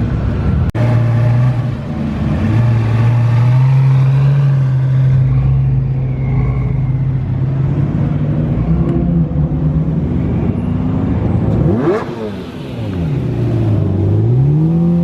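Car engines running loudly on a street as cars pull away one by one, a steady deep engine note most of the way. About twelve seconds in an engine revs sharply, and near the end the engine pitch drops and climbs again as a car accelerates.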